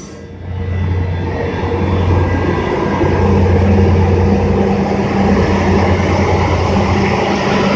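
Train's locomotive engine running with a steady low drone.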